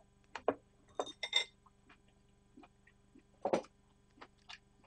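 Close-miked eating sounds: chewing a mouthful of steamed cabbage wrap, with small wet mouth clicks. About a second in comes a light ringing clink of chopsticks against a bowl, and a louder knock comes about three and a half seconds in.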